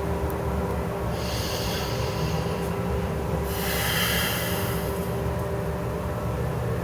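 Two long, airy breaths close to the microphone, one about a second in and a longer one near the middle, over a steady low hum.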